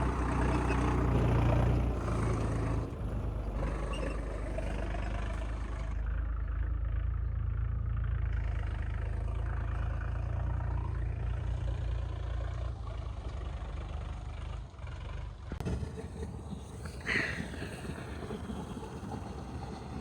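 Combine harvester engine running with a steady low hum. About fifteen seconds in, the sound changes suddenly: the deep hum drops away and a lighter rattling noise is left, with one short sharp squeak a moment later.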